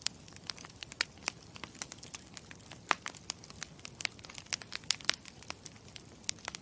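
Wood fire crackling: irregular sharp pops, several a second, over a steady low hiss.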